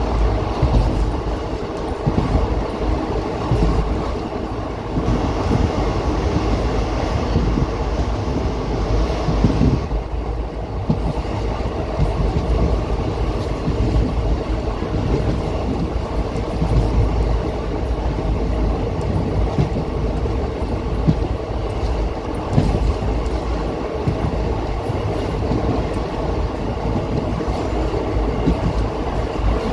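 Passenger train running along the rails, heard from inside the coach at an open barred window: a loud, steady running noise with the clatter of the wheels.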